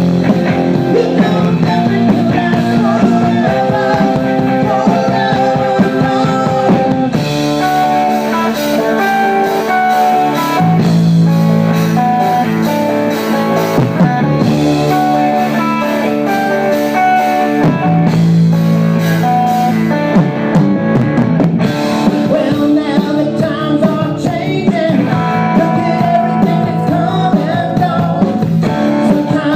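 Live rock band playing, with guitar prominent.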